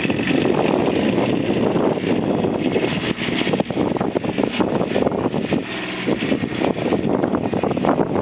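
John Deere Pro-Gator utility vehicle's engine running, mixed with wind buffeting the microphone.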